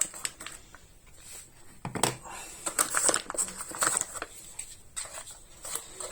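Ground coffee being scooped with a small measuring scoop and tipped into an espresso machine's filter basket: irregular light scraping, rustling and clicks of the scoop against the coffee container and basket.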